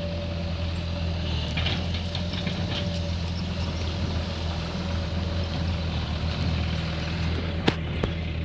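Sonalika tractor's diesel engine running steadily under the load of a fully loaded trolley. There is a single sharp click near the end.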